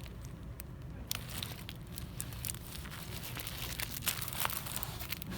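Plastic packaging crinkling and rustling as store items are handled, in an irregular run of short crackles and clicks over a steady low hum.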